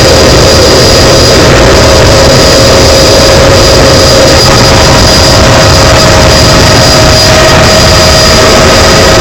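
Helicopter noise in flight, heard from inside the cabin: a loud, steady whine over a constant rumble.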